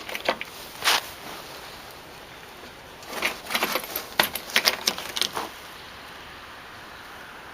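Short, sharp clicks and light metallic rattles, one about a second in and a quick run of them in the middle, over a faint steady hiss; no engine is running.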